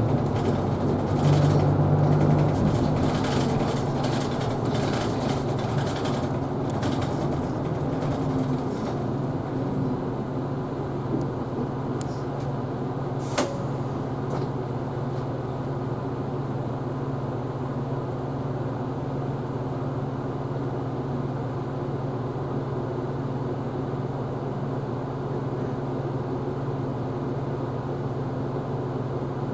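Isuzu Erga Hybrid city bus running, heard inside the cabin: louder road and drive noise for the first several seconds, then settling to a steady low hum. One brief high squeak about a dozen seconds in.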